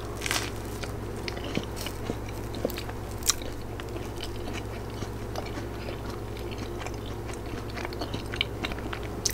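A person chewing and biting food close to the microphone, with scattered small crunches and mouth clicks over a steady low hum.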